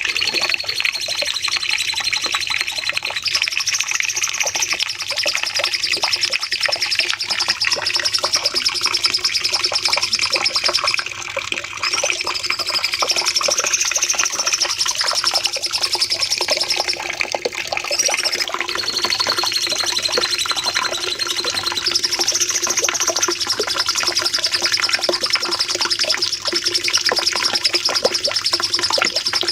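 Cucak cungkok singing a long, unbroken stream of rapid chattering notes with high trilled runs that rise and fall again and again, over a steady low hum.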